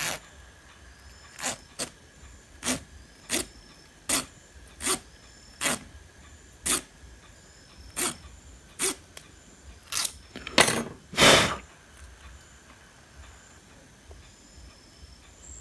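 Short scraping strokes of a tool rubbing on metal component pins, roughly one every 0.7 s and stopping about 12 seconds in: the pins are being scrubbed clean of corrosion so solder will take.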